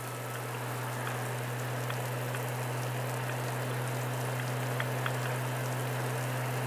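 Steady rush of rain on a moving motorcycle, with a few faint raindrop ticks and a steady low hum underneath.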